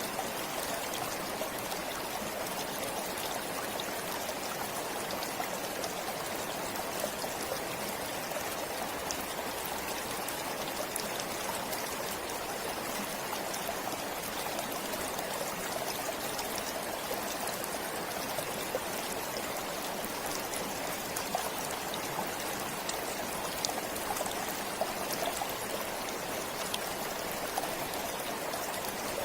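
A forest stream flowing steadily over rocks, a continuous babble with small splashes and trickles.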